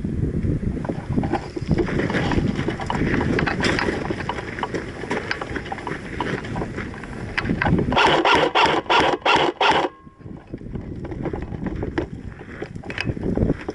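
Wind buffeting the microphone with rustling movement noise. About eight seconds in comes a quick run of about seven sharp pops over two seconds.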